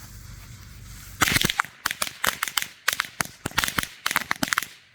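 A steady hiss, then about a second in a pack of ladyfinger firecrackers starts going off: a rapid, uneven string of small sharp bangs.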